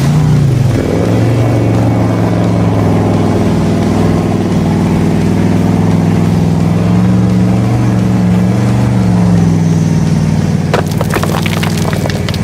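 A vehicle engine running at a steady speed, its pitch wavering slightly, with a short burst of clattering crackles about eleven seconds in.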